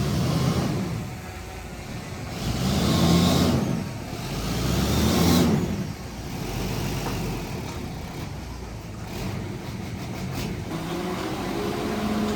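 Heavy diesel earthmoving machine engine revving up and easing off three times, then running steadier and quieter, with a slight rise in pitch near the end.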